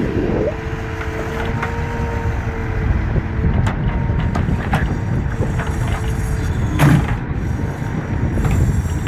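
Scania 164C's 580 hp V8 diesel running steadily under load while it drives the loading crane's hydraulics, with a steady high whine that drops out about three seconds in and returns near the end. Several sharp knocks break through, the loudest about seven seconds in.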